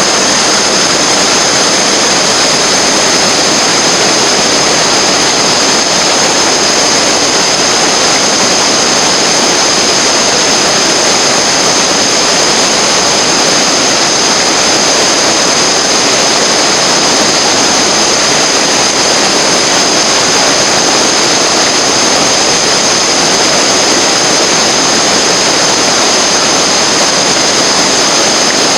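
Loud, steady rush of fast-flowing water, with no breaks or changes.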